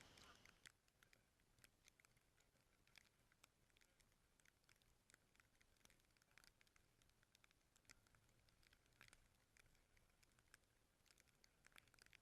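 Near silence, broken by faint, scattered short ticks.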